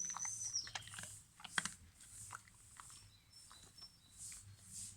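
Faint high chirps of birds in the background, with a few soft clicks in the first couple of seconds.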